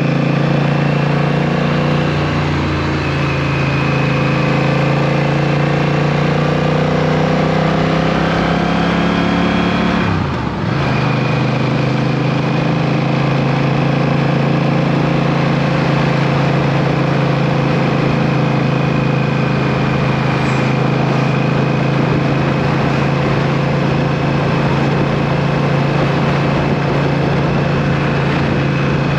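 Motorcycle engine running at a steady speed while riding, with a short break in the engine note about ten seconds in before it settles back to the same steady pitch.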